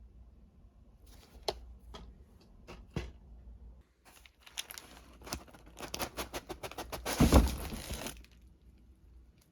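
Packaging being torn open and crinkled by hand: a few separate handling clicks, then a dense run of tearing and crackling about halfway through that stops shortly before the end.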